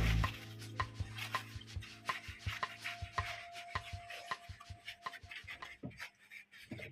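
Repeated short scraping or scrubbing strokes, roughly two to three a second, growing sparser near the end.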